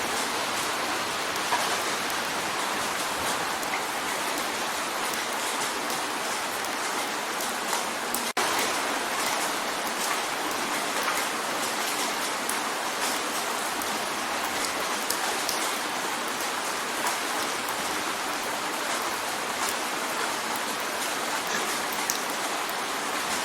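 Steady rain drumming on a window pane: a dense even hiss with many small drop ticks. A very brief dropout about eight seconds in.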